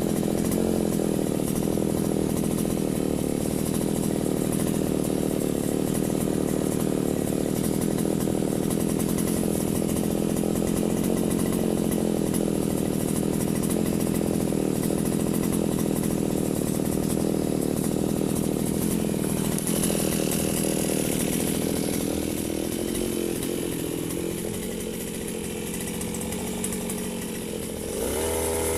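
Firman FGB 528 two-stroke brush cutter engine running steadily at high speed, then dropping in pitch and easing off about two-thirds of the way through as the throttle comes back.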